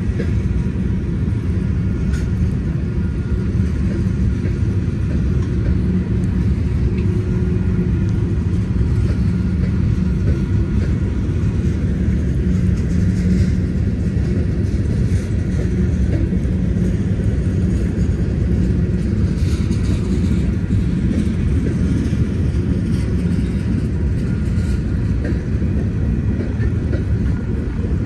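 A freight train of covered hopper cars rolling past: a steady, heavy low rumble of wheels on rail, with a few faint sharper clicks scattered through.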